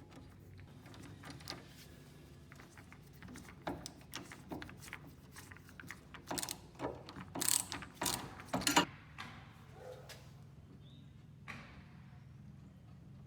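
A metal mechanism being worked, clicking and ratcheting: scattered light clicks at first, then a run of louder clacks and clunks about halfway through, then quieter again.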